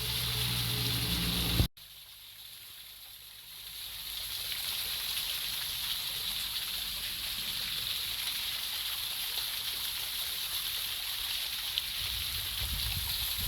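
A vehicle engine running briefly, cut off abruptly, then a steady rushing hiss of flowing water, like a mountain stream or cascade, fading up and holding even.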